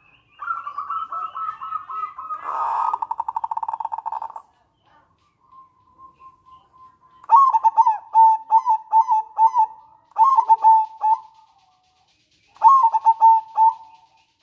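Zebra dove (perkutut) calling. A run of quick notes turns into a fast rattling trill. After a pause, three phrases of rhythmic staccato cooing follow, each note dipping in pitch.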